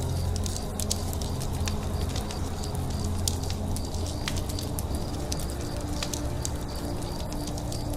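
Campfire crackling, with sharp irregular pops over the steady low rumble of the flames. A faint high chirping repeats in short, evenly spaced notes in the background.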